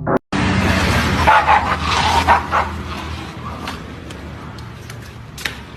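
A dog barking several times in quick succession over a noisy background.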